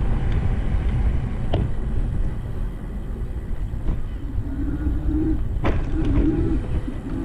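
Wind buffeting the microphone of a moving bicycle, a loud steady low rumble, with a few sharp clicks from the bike about one and a half, four and six seconds in.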